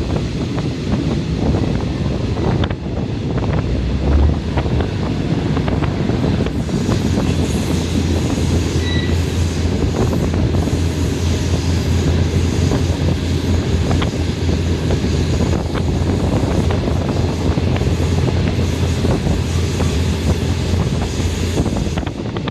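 Running noise of a train heard from on board: a steady rumble of wheels on the rails with scattered clacks. A low steady drone comes in about six seconds in and fades near the end.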